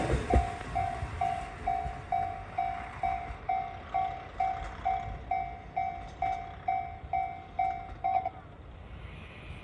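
Railway level-crossing alarm ringing a repeating single-pitched tone a little over twice a second, stopping about eight seconds in, after the train has passed. A faint low rumble lies beneath it.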